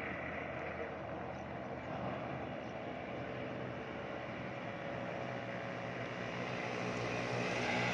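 A motor vehicle's engine running steadily along the road, getting louder near the end as it approaches.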